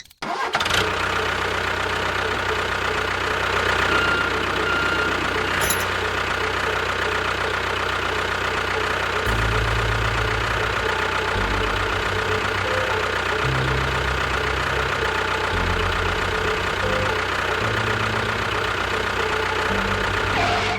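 A steady engine sound that runs without a break. About halfway through, deep low tones come in and shift every half-second or so.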